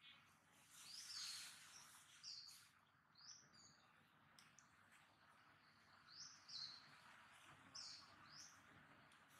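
Faint bird chirps: short rising notes, scattered every second or so, over a light background hiss.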